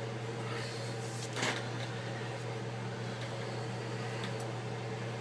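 Steady low electrical hum from workbench equipment, with a brief soft rustle of plastic about a second and a half in.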